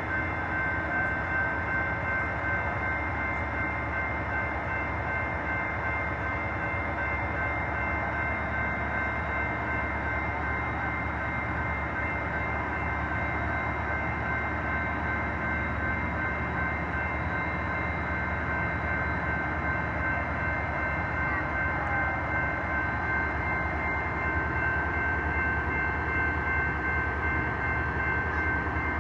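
Steady train noise with a constant high whine over an even rumble, unchanging throughout.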